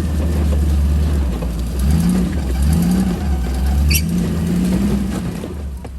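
Rock-crawler truck engine running under load and revving up and down in three short bursts as the truck tries to climb free of a boulder it is hung up on. A brief high squeak comes about four seconds in.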